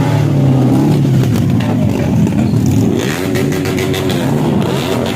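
Vehicle engines being revved, the pitch rising and falling through repeated revs.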